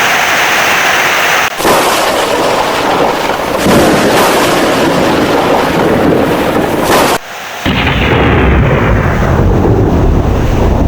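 Heavy rain with thunder rumbling. The sound drops out abruptly for a moment about a second and a half in and again around seven seconds. After the second drop a deeper rumble comes in.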